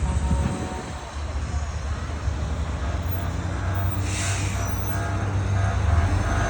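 Large parade trucks' engines running with a steady low rumble, and a short hiss about four seconds in.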